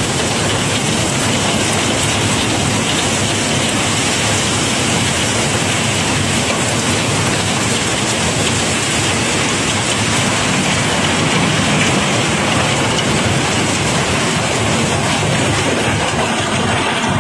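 A continuous stream of cobblestones pouring out of the barge's cargo, making a dense, steady rush of countless rocks clattering together, much like heavy rain.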